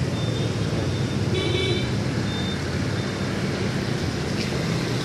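Car engine idling steadily, a low even hum. A brief high chirp sounds about a second and a half in.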